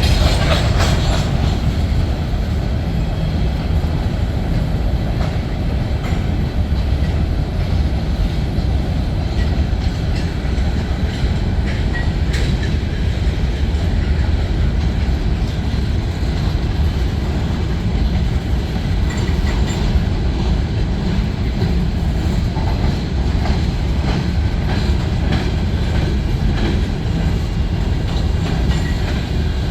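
Train running on the rails: a steady low rumble with frequent faint clicks throughout.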